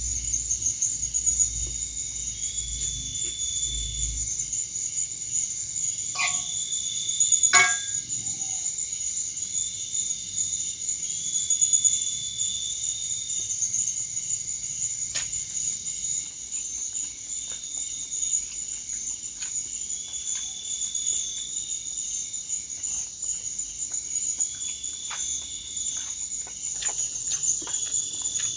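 Night insect chorus in tropical forest: a steady high-pitched trill, overlaid by another insect's repeated trills about a second long every few seconds. A few sharp clicks stand out, the loudest about seven seconds in.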